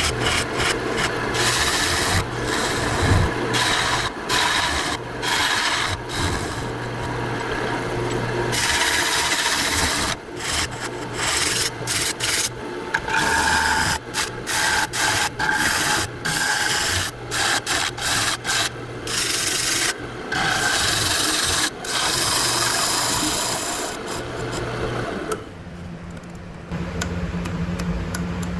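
A bowl gouge cuts the inside of a spinning wooden bowl on a wood lathe, a rough scraping cut over the lathe motor's steady hum. Partway through, the cut breaks into many short strokes, and near the end it stops while the lathe keeps running.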